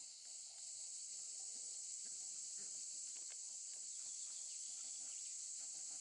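A steady high-pitched hiss of outdoor ambience, with faint scattered splashes from a knob-billed duck bathing in water.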